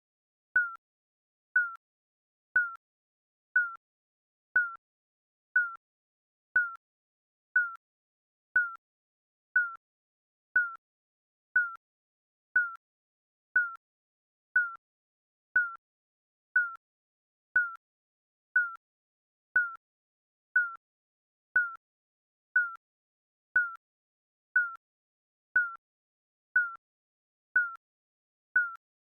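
Digital countdown timer beeping: a short, sharp mid-high beep once a second, each dying away quickly, in a steady unbroken rhythm.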